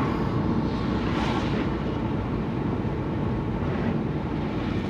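Car driving on a wet road, heard from inside the cabin: a steady low road rumble, with a brief hiss that swells and fades about a second in.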